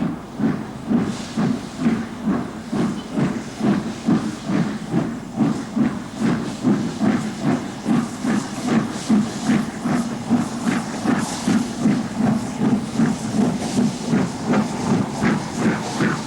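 Flying Scotsman, a Gresley three-cylinder A3 Pacific steam locomotive, working under steam: a rapid, even chuff of exhaust beats at about three a second, with steam hiss.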